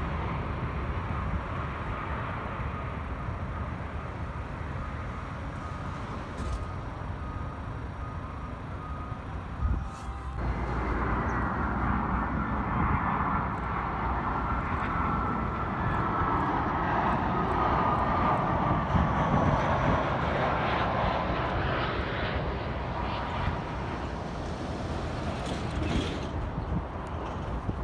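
Jet airliner on approach passing by, its engines making a steady rushing noise with a whine that slowly falls in pitch as it goes past, loudest a little past the middle. Low wind rumble on the microphone underneath.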